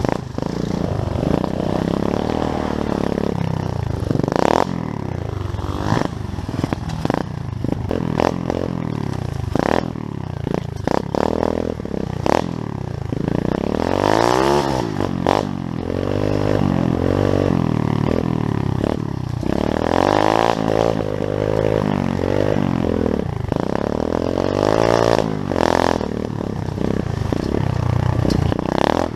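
Pit bike engine revving up and falling back over and over, with scattered knocks and rattles through it.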